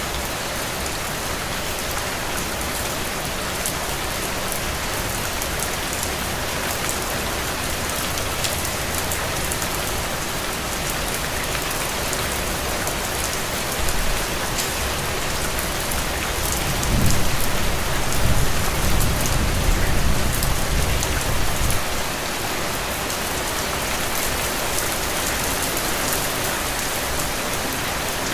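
Heavy, steady rain falling on open ground, with sharp individual drop hits through it. About two-thirds of the way through, a low rumble swells for several seconds, then drops away.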